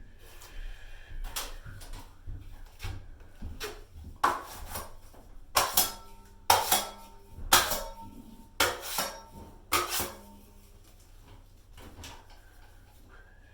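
Drywall knife clacking and scraping as joint compound is loaded onto and wiped off it, with sharp strokes about once a second through the middle.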